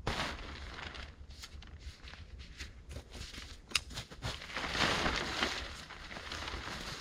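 Rustling and crinkling handling noises from a camping tarp and its cord being adjusted by hand, with a sharp click a little under four seconds in and a louder stretch of rustling around five seconds.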